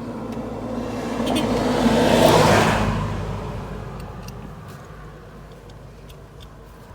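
A car passing by: its noise swells to a peak about two seconds in and fades away, over a steady low engine hum.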